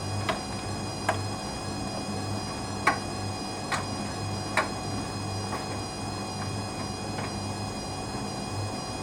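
Hoover Dynamic Next washer-dryer on its first intermediate spin: a steady motor hum whose low note swells and fades in a slow pulse. Five short sharp clicks or taps come over the first five seconds as the drum turns.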